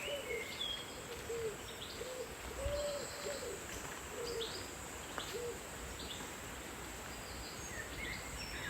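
A bird giving a series of low, soft hooting calls, mostly short with two longer ones, that stop a little past halfway, while small birds chirp higher up.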